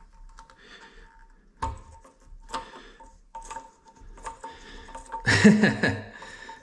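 Plastic toilet-seat hinge parts being handled and fitted: scattered clicks and knocks, with a louder scraping rattle about five seconds in. A faint steady tone sits underneath.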